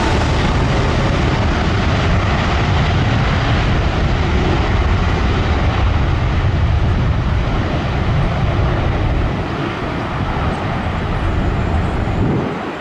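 Large jet airliner's engines rumbling loud and low just after it passes overhead on its landing approach, the rumble fading away over the last few seconds.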